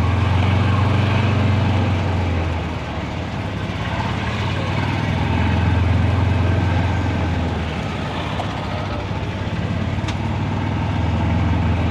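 Low, steady vehicle engine rumble that swells louder twice and eases off in between.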